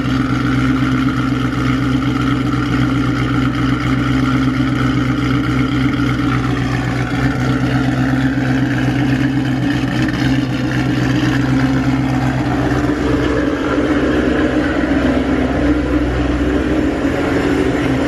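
Built supercharged 5.8-litre V8 of a Shelby GT500 idling steadily just after its first start following the rebuild, running loud through headers and an X-pipe exhaust.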